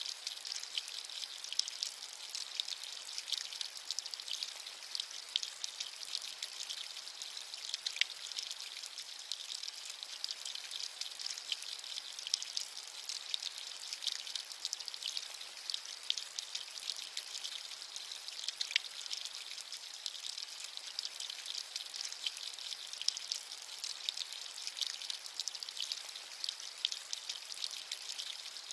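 Steady rainfall, a bright hiss made of many small crackling drop impacts, with nothing low or rumbling under it.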